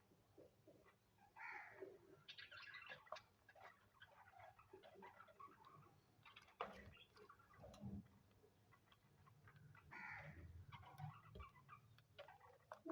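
Cockatiels chattering faintly in short bursts, with scattered sharp clicks.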